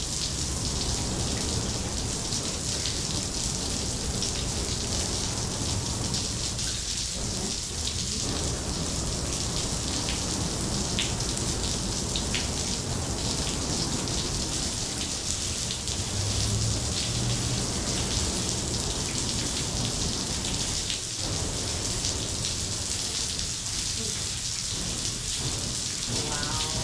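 Artificial rain falling steadily from a rain room's overhead sprinklers, an even hiss of water spray and drops.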